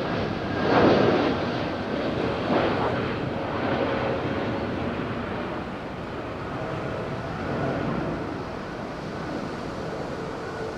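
Airbus A321neo's CFM LEAP-1A turbofans at go-around thrust, a steady jet noise with faint whining tones that slowly fades as the aircraft climbs away. Wind on the microphone adds two louder swells near the start.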